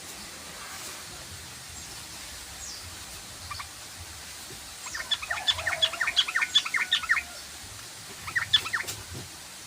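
Yellow-vented bulbul (trucukan) chattering: a fast run of many short, bubbly notes about halfway through, a brief call before it and a shorter burst near the end, over a steady background hiss.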